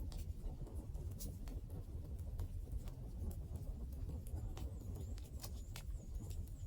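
Wood fire burning: a steady low rumble of the flames with sharp, irregular crackles and pops, a dozen or so spread across the time.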